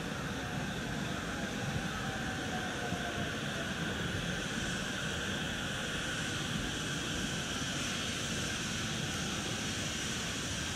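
E231 series electric commuter train rolling into the station platform, a steady rumble and hiss of wheels and running gear as it approaches and slows. A faint falling whine comes a couple of seconds in.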